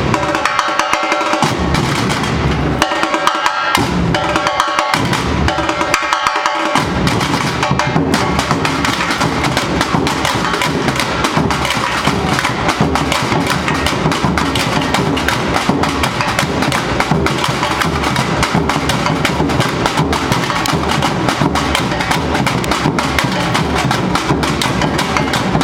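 Brazilian samba bateria, a university percussion ensemble, playing: a sparser opening with gaps between phrases, then about seven seconds in the full band with deep bass drums kicks in and drums continuously.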